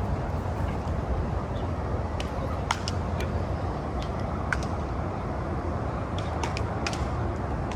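Steady outdoor background noise, strongest at the low end, with a few faint sharp clicks scattered through it.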